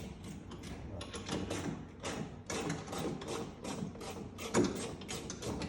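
Ratchet wrench clicking in a steady rhythm, about three sharp clicks a second, as a bolt is turned.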